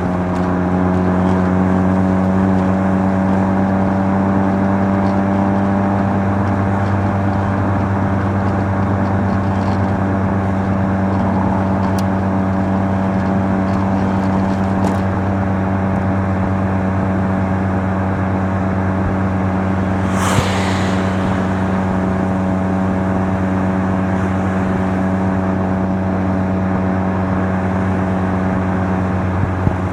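Mazda RX-7 FC3S twin-rotor 13B turbo rotary engine cruising at steady revs through a Knight Sports Legal Sports muffler, heard from inside the car. A brief hiss cuts in about twenty seconds in.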